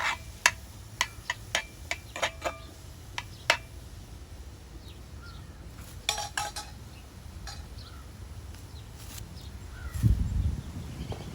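A metal utensil clinking against a cooking pot in quick, irregular strokes for the first few seconds, with a few more clinks about six seconds in. A low rumble sets in near the end.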